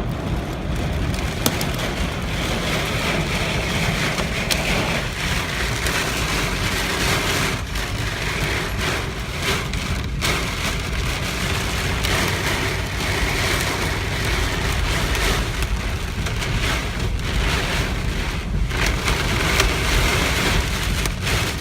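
Heavy rain and storm wind pounding a moving car, heard from inside the cabin, with a dense, steady hiss over a deep rumble.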